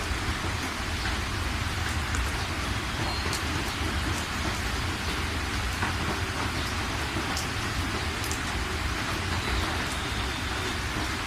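Steady heavy rain falling, an even hiss with scattered drop ticks over a constant low rumble.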